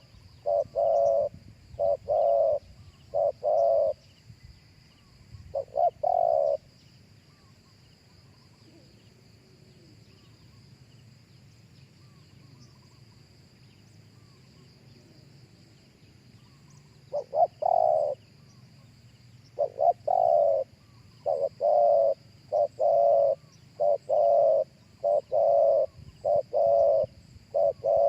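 Spotted dove cooing in repeated phrases of short, low notes. It falls silent for about ten seconds partway through, then starts cooing again.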